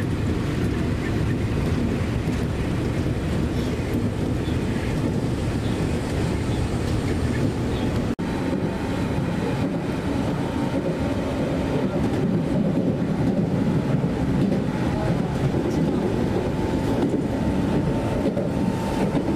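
Steady running noise of an electric train heard from inside the car: a constant rumble of the wheels on the track. The sound drops out for an instant about eight seconds in, and from then a faint steady high tone runs over the rumble.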